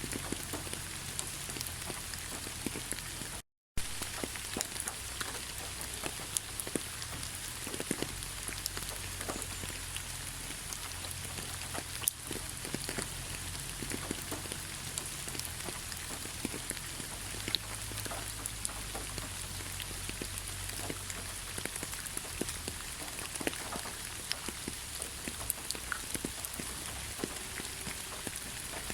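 Heavy rain falling steadily: a dense even hiss scattered with many individual drop taps. The sound cuts out to total silence for a split second about three and a half seconds in, then resumes unchanged.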